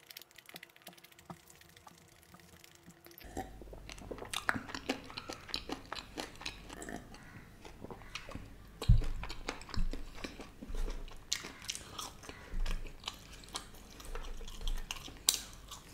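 Close-miked chewing of crispy fried chicken: wet crunching and smacking, faint for the first few seconds and then steady from about three seconds in. A single thump about nine seconds in is the loudest sound.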